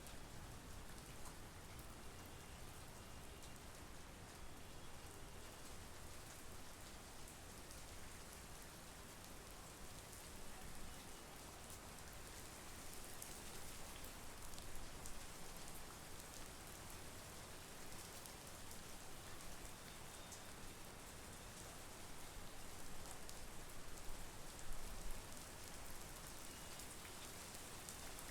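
Steady monsoon rain falling, with scattered individual drops ticking close by. It grows a little louder about two thirds of the way through.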